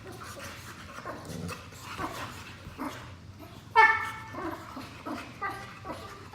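Two Boxer dogs play-fighting, with scattered low rough noises throughout. There is one loud, high-pitched bark about four seconds in and a weaker one about a second and a half later.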